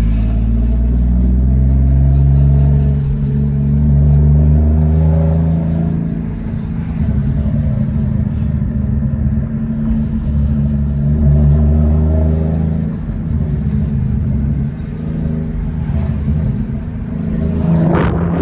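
Turbocharged 1JZ-GTE straight-six engine in a Lexus IS300 driving under throttle, its note rising and falling in pitch as it revs and eases off, heard from inside the car. A short rising rush of noise comes at the very end.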